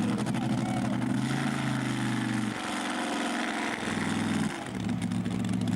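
A big pulling-tractor engine running steadily at low speed. Its note shifts about halfway through and settles back near the end.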